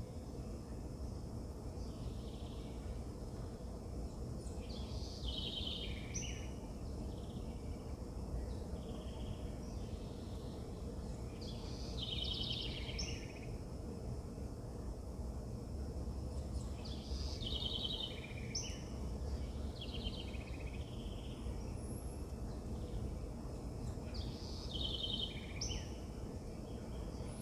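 A songbird singing a short phrase with a quick trill, repeated four times a few seconds apart, over a steady low rumble of outdoor background noise.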